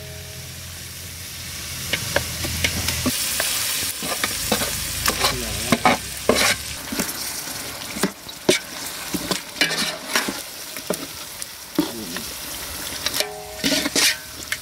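Marinated chicken hissing and sizzling as it is tipped into a hot metal pot, then stirred with a ladle that scrapes and knocks irregularly against the pot's sides.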